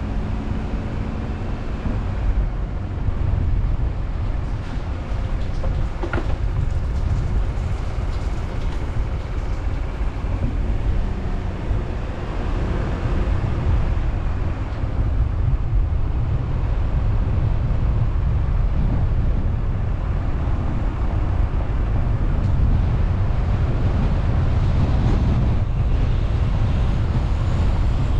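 Steady low rumble of a car driving, road and engine noise picked up by a car-mounted GoPro.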